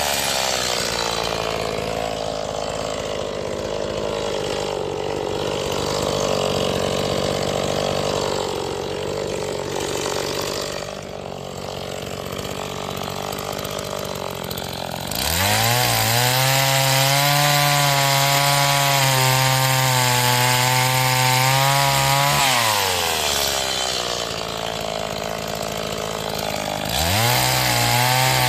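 STIHL MS 180 chainsaw's two-stroke engine during break-in. It runs at lower, uneven speed for about fifteen seconds, then revs up sharply and holds a steady high speed for about seven seconds. It drops back for a few seconds and revs up again near the end.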